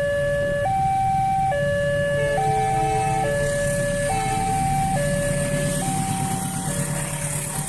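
Railway level-crossing warning signal sounding two alternating tones, high and low, each held just under a second, fading somewhat near the end. A steady low engine rumble runs underneath.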